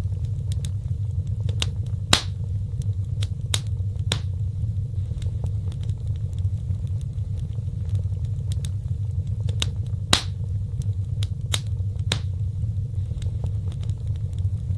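Fireplace fire burning with a steady low rumble and scattered sharp crackles and pops, the loudest about two seconds in and again about ten seconds in.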